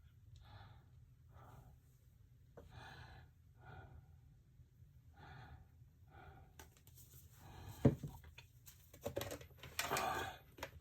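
A person breathing close to the microphone, soft breaths about once a second. From about two-thirds of the way in, scratchy handling noise with clicks, one sharp click, and a louder rustle near the end.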